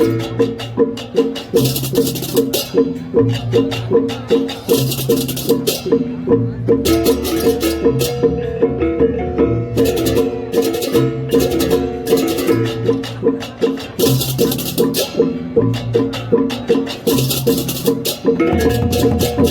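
Balinese gamelan playing a fast piece: dense clanging gong-chime melody over changing low gong notes, with repeated bursts of crashing cymbals.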